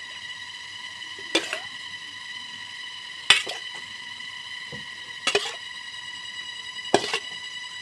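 A spoon or utensil knocking against dishes: about five light, separate clinks spread over several seconds, the sharpest a little past three seconds in. A steady high-pitched whine of several even tones runs underneath.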